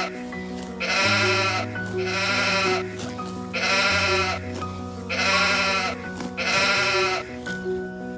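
Sheep bleating five times in a row, each bleat about a second long with a wavering, quavering pitch, over steady background music.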